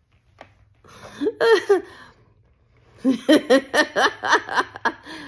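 A woman laughing: a short burst about a second in, then a longer run of quick, rhythmic laughs from about three seconds in.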